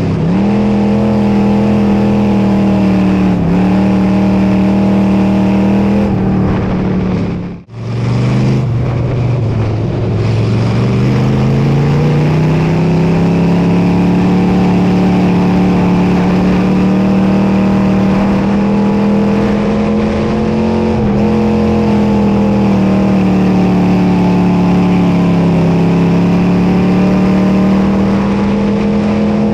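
Dirt modified race car's engine running hard at steady high revs, with a few short dips in pitch. About eight seconds in the sound cuts out briefly; it comes back at low revs and climbs steadily back up to full speed over the next few seconds.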